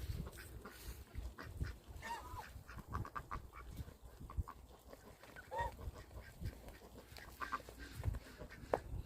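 Domestic geese honking in short, scattered calls, with some duck-like quacks mixed in, over dull low thumps.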